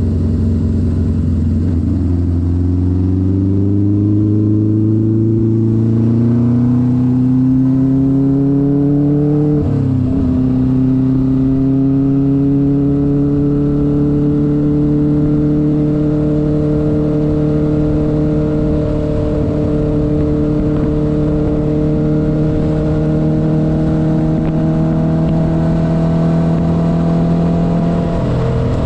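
1972 Honda CB500's air-cooled inline-four engine pulling under way, its note rising as the bike accelerates. About ten seconds in the note breaks and drops at an upshift, then climbs slowly and steadily. Another brief break comes near the end.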